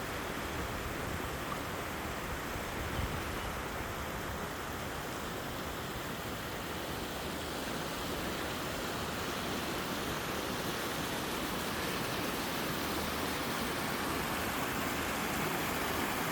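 Mountain stream waterfall: a steady rush of water, growing slightly louder in the second half.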